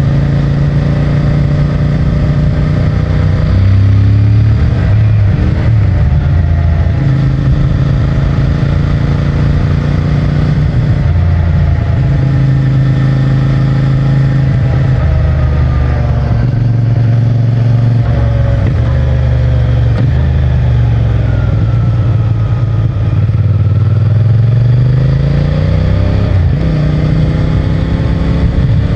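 CFMOTO 450MT motorcycle's parallel-twin engine and stock exhaust running under way, its pitch shifting up and down with the throttle, with a rise in revs near the end.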